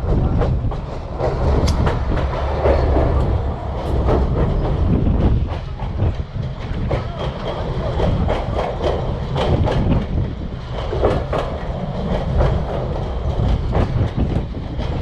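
Passenger railroad car rolling along the track, heard from on board: a steady low rumble with irregular clicks of the wheels over the rail joints.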